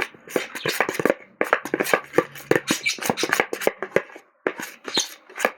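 Homemade slime mixed with shaving foam being kneaded and squeezed by hand: a fast, irregular run of sticky wet clicks and squelches, breaking off briefly about four seconds in.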